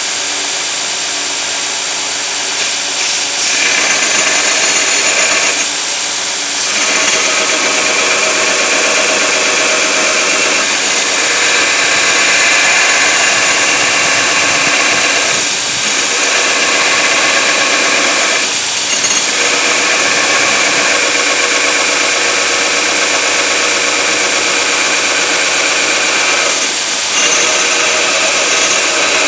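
A power grinder working steel, a steady high hiss and whine that eases briefly about five times, as at about 3, 6, 15, 19 and 27 seconds.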